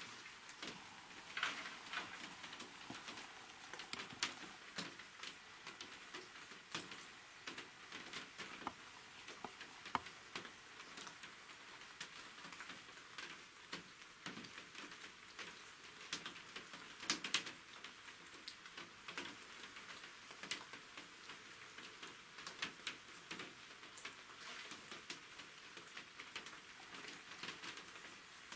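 Light, scattered raindrops pattering: faint irregular ticks over a soft hiss, with a couple of louder drops about a second and a half in and around the middle.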